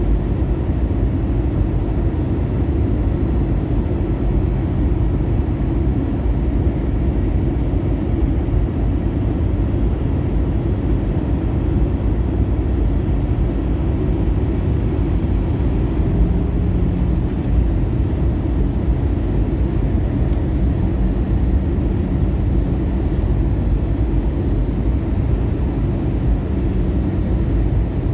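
Steady cabin noise inside an Airbus A320-214 in flight: a low rush of airflow and engines. From about halfway through, a faint low hum rises in and out of it.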